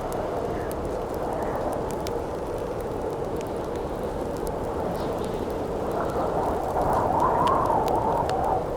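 Campfire crackling with scattered sharp pops over a steady rush of howling wind. About six seconds in a gust swells and howls louder with a wavering pitch, then drops away near the end.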